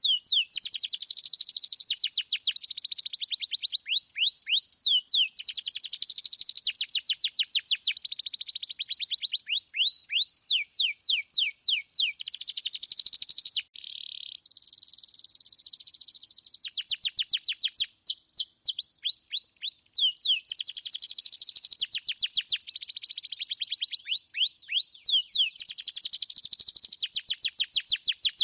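Domestic canary singing continuously: fast rolls of repeated downward-sweeping whistled notes, phrase after phrase changing speed. There is a brief break about halfway through.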